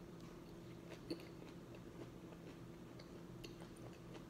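Faint close-up chewing of a mouthful of gyro, with a few soft mouth clicks over a low steady hum.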